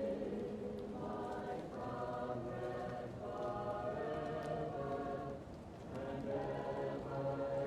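A choir singing slow, held chords, muffled as though heard from another room, with a short break between phrases about two-thirds of the way through. A few faint crackles from a wood fire come through.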